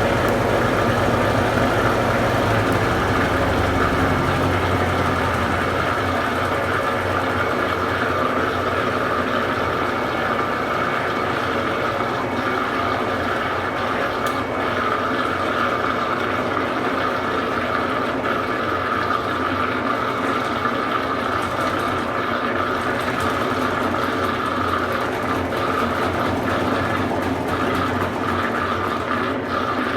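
Consul Supercargo 8 kg washing machine (CWL08C) running mid-cycle, a steady motor hum with a low drone that fades away about four seconds in.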